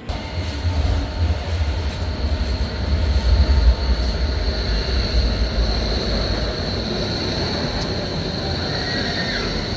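Electric S-Bahn commuter train running through the station: a heavy low rumble with a steady high whine above it. The rumble is strongest in the first half and eases off, and a faint squeal glides in near the end.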